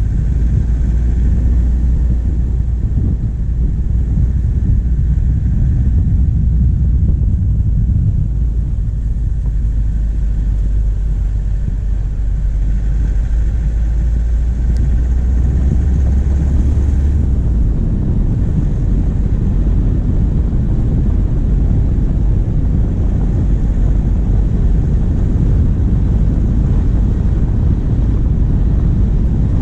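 Diesel engine of a vehicle driving, picked up close by a microphone on the bonnet: a steady low rumble. Its strongest low note drops away about two-thirds of the way through while the engine keeps running.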